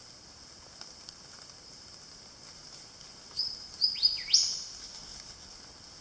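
Steady high drone of rainforest insects. About three and a half seconds in, a bird calls: two short high notes, then quick upward-sweeping whistles, the last the loudest.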